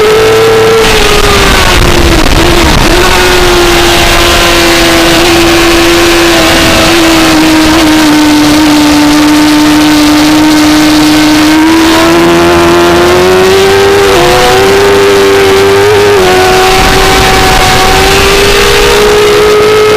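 A 2004 Suzuki GSX-R600's inline-four engine running loud at high revs under racing throttle. Its pitch sags through the middle and climbs again, with brief dips about two and a half seconds in and again near fourteen seconds, over a steady rush of wind.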